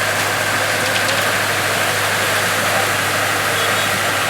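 Engine of a heavy construction machine running steadily at idle: an even low hum under a constant hiss, with no change in speed.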